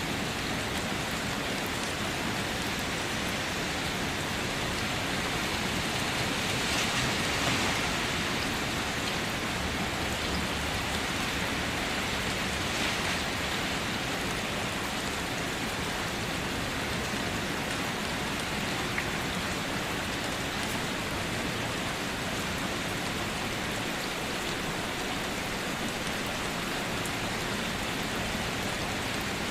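Steady rain falling, an even hiss of many drops, swelling slightly about a quarter of the way in.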